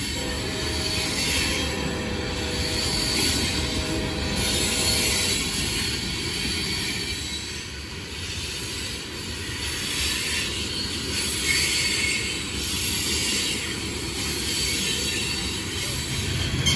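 Coal train's cars rolling past: steady rumble and clatter of steel wheels on rail, with high-pitched wheel squeal coming and going.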